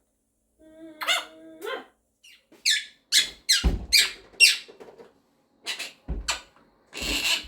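Monk (Quaker) parakeet calling: a held note, then a rapid run of about six sharp chirps that each fall in pitch, then a few harsh squawks near the end.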